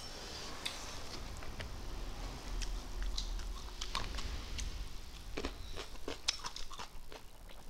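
Close-up chewing and lip-smacking of people eating rice and meat with their hands: short, irregular mouth clicks and smacks.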